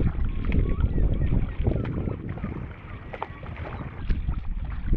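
Wind buffeting the microphone on open water, with paddle strokes in the water and faint herring-gull-type calls from a colony of gulls.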